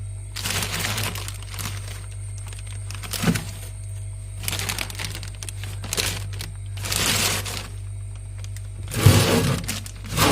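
Plastic bags rustling and crinkling in several short bursts as bagged vegetables are handled, with a sharp click about three seconds in.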